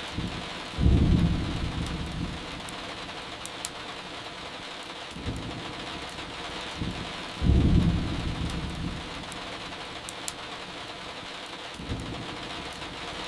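Steady rain with two low rolls of thunder, one about a second in and one past halfway, each coming on suddenly and dying away over a couple of seconds. Faint sharp crackles of burning firewood here and there.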